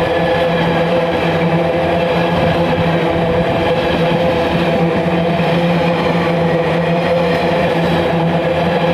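Diesel freight locomotive engine running loud and steady, a deep droning hum that holds one pitch.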